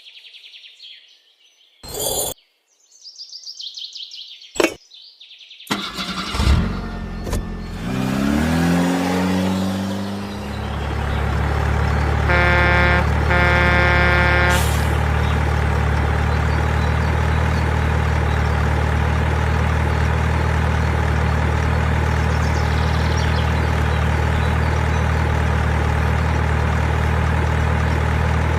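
Birds chirp with a few sharp clicks, then about six seconds in an engine starts, its pitch rising, and settles into a steady low running sound. A horn beeps twice about midway.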